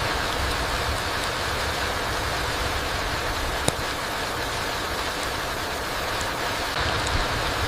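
Steady rain falling on a forest floor: an even hiss of rainfall with a few sharper single drops, one louder drop about three and a half seconds in.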